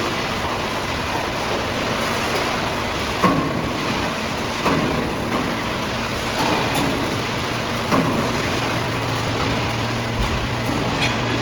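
Hydraulic aluminum can baler running: a steady machine noise broken by several sharp clanks, with a low steady hum coming in about three-quarters of the way through.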